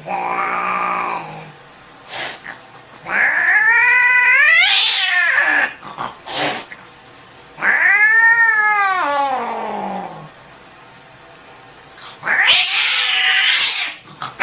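Domestic cat yowling four times in long, loud calls that rise and fall in pitch, with short bursts of noise between them: an upset cat protesting while being handled for a rabies vaccination.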